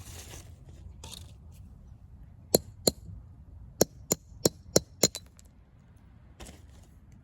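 About eight sharp metallic clinks, roughly a third of a second apart, each with a brief high ring. A short hiss comes near the start.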